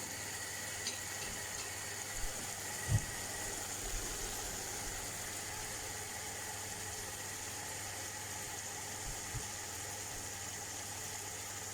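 Steady hiss with a low hum from chicken cooking in a pot on the stove on full flame, with one soft knock about three seconds in.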